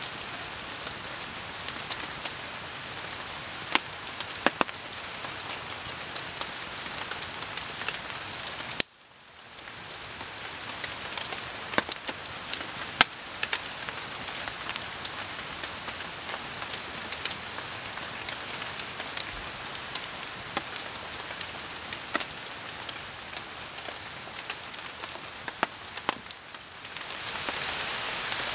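Steady rain falling with the river running behind it, and a campfire crackling with scattered sharp pops. The sound drops out abruptly about nine seconds in, comes back over a second or two, and grows louder near the end.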